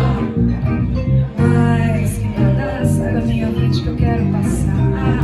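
Instrumental break in a live Brazilian song, a melody line moving over sustained low bass notes with a new phrase starting about a second and a half in.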